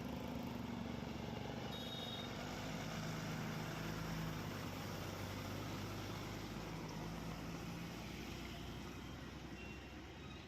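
Diesel engine of a Tata 3118 twelve-tyre truck running steadily at low revs, fading somewhat near the end.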